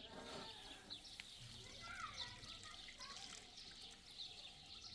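Near silence: faint outdoor ambience with a few faint, high chirps scattered through it.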